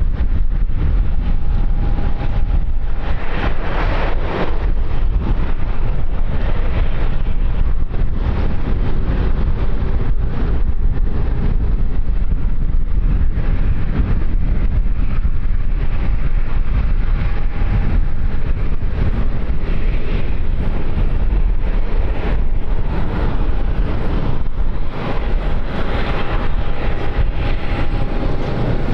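Wind buffeting the microphone: a loud, steady low rumble with a rushing haze above it, and a faint thin tone coming and going.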